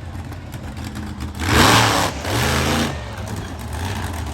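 Monster truck engine revving, swelling to a loud burst of revs about a second and a half in, holding briefly, then dropping back.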